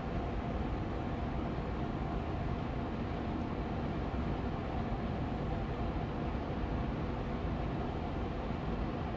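Austin Air Allergy Machine air purifier fan running steadily on medium speed: an even rush of air with a low hum and a faint steady tone in it.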